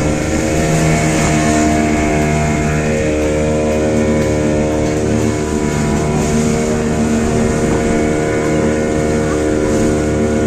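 Motorboat engine running steadily, a continuous drone with no change in speed.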